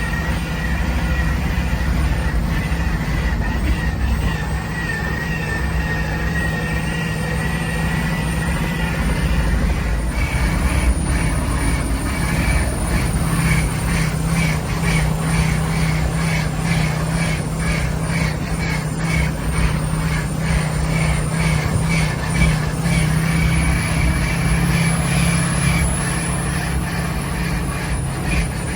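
Ford F250 mega truck with a 6.0 Powerstroke diesel driving on the road, a steady low drone of engine and big tires. From about ten seconds in, a regular light tapping runs under the drone.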